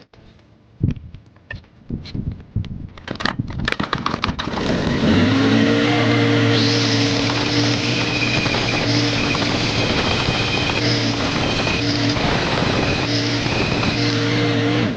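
Metal parts knock and clatter a few times. Then, about five seconds in, a power tool starts, spins up and runs steadily with a scraping, whirring noise, cutting off at the end.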